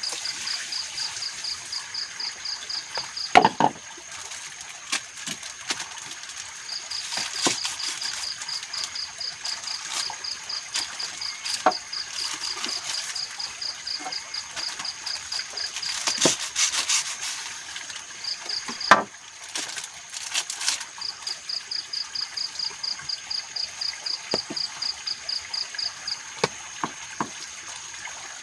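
Forest insects calling: a high, evenly pulsed chirping several times a second that stops and restarts in spells, over a steady high-pitched whine. A few sharp knocks or clicks cut through, the loudest about three and a half seconds in and again near the end of the second third.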